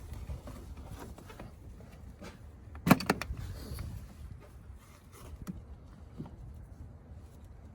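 Light clicks and knocks of objects being handled, with one sharp clatter of a few quick strikes about three seconds in.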